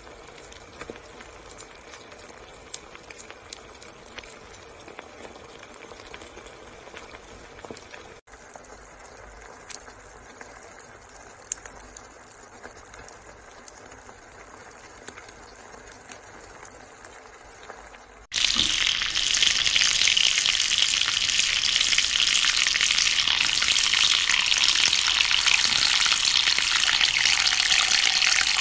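Eggs frying in a pan: a quiet sizzle with scattered small pops. About two-thirds of the way through it cuts suddenly to a much louder, dense sizzle of a whole flatfish frying in shallow oil.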